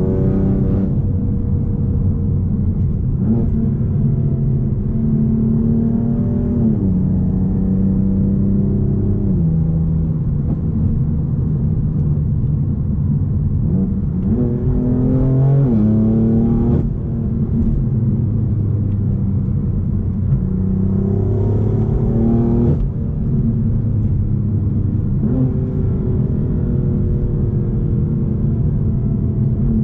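BMW M4's twin-turbo straight-six running through a decatted Akrapovic exhaust under driving: the engine note climbs in pitch several times under acceleration and drops suddenly at each gear change, the strongest pull about halfway through.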